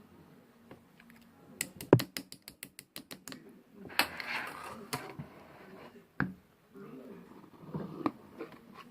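A quick run of about a dozen sharp clicks, like tapping or typing, then a second of rustling, a single sharp knock, and more soft rustling with a few clicks.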